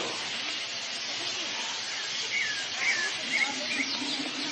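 House sparrows giving four short chirps about halfway through, over a steady hiss.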